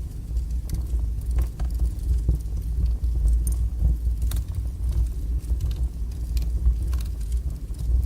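Wood fire burning in a fireplace: a steady low rumble from the flames, with irregular sharp crackles and pops from the burning logs.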